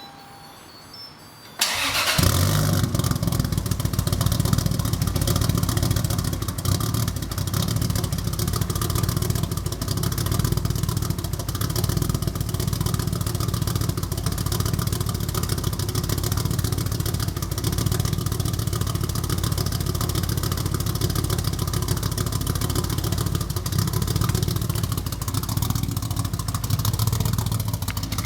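Toyota Supra's straight-six, fitted with HKS 280-degree cams and an HKS 4-inch titanium exhaust, starts about a second and a half in, then settles into a steady, loud idle through the exhaust.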